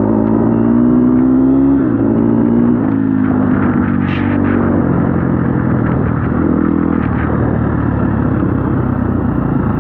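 Dirt bike engine running on the move. Its pitch rises over the first two seconds, then drops and climbs again in steps as the throttle and gears change.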